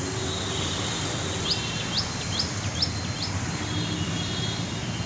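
A small bird calls a quick series of five sharp rising chirps about a second and a half in, over a steady low outdoor rumble.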